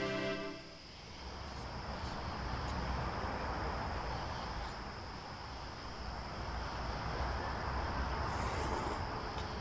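Background music cuts off about half a second in, then a steady rushing outdoor noise with a low rumble underneath.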